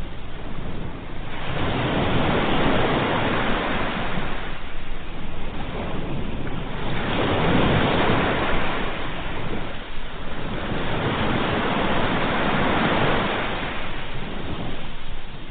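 Ocean waves breaking, the surf swelling and falling back in slow surges every four to five seconds.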